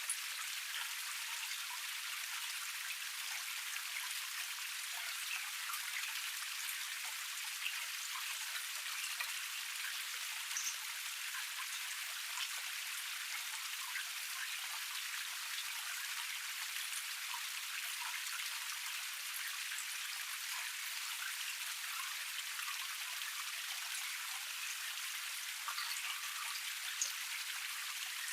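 Water running steadily over a small forest waterfall cascade: a constant hiss with many small splashes and drips, thin with no low rumble.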